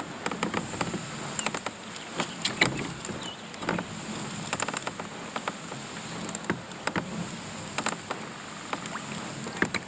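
Irregular small clicks and knocks of handling in a boat, over the steady low hum of a boat motor trolling.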